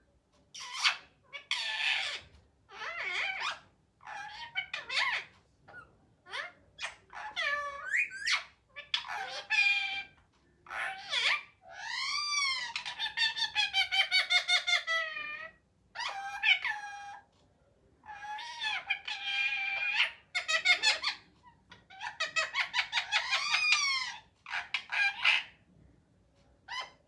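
Pet parrot talking: a long string of high, squawky mimicked words and calls, rising and falling in pitch, each lasting up to a few seconds with short pauses between.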